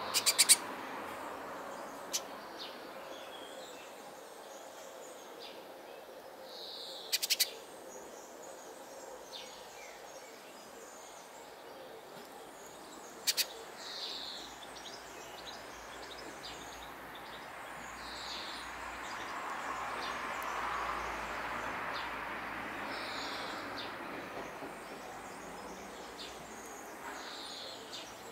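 Short high bird calls repeating every four or five seconds, with a few sharp clicks and a steady background hiss.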